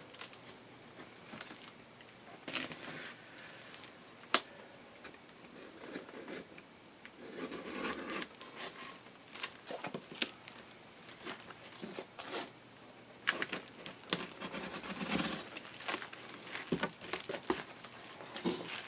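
Cardboard box and plastic packing being handled and opened: crinkling, rustling and tearing with scattered light knocks, one sharp click about four seconds in.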